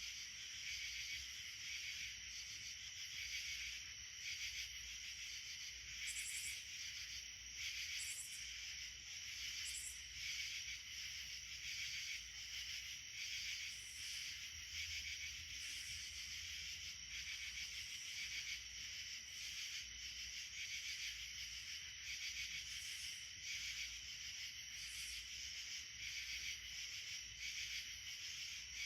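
Steady insect chorus, a continuous high, finely pulsing trill of many insects sounding together.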